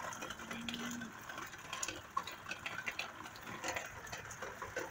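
Steady rain with drops falling and dripping, heard as an irregular run of small ticks over a soft hiss.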